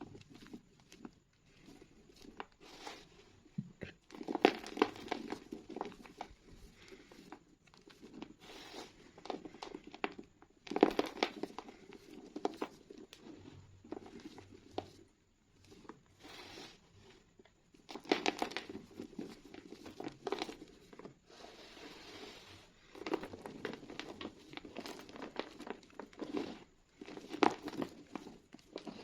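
School chalk being crushed and crumbled, giving irregular dry crunches and crackles in bursts with short pauses in between.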